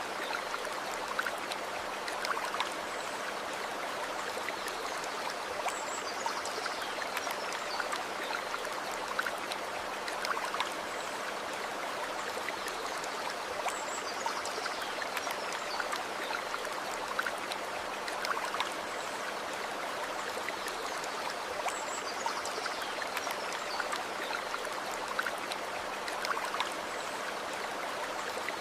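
Stream running steadily over stones, an even babble with many small splashes.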